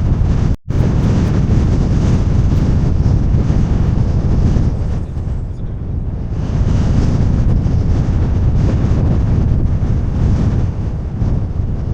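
Strong wind buffeting the microphone: a loud, gusting rumble that drops out for an instant about half a second in.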